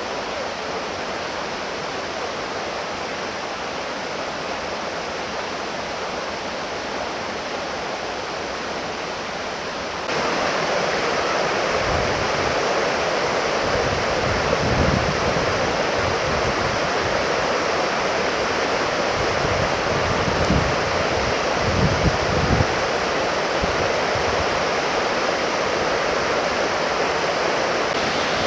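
Ryumon Falls, a waterfall, giving a steady rush of falling water. It steps louder about ten seconds in, and short low rumbles come and go in the second half.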